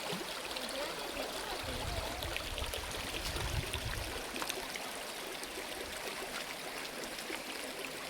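Stream water flowing and babbling over rocks, a steady rush dotted with small splashes, with a low rumble between about two and four seconds in.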